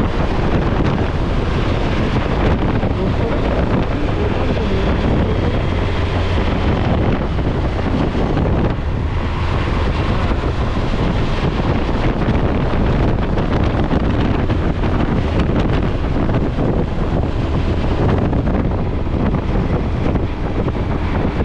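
Wind buffeting the microphone: a steady, loud rumble with a hiss over it.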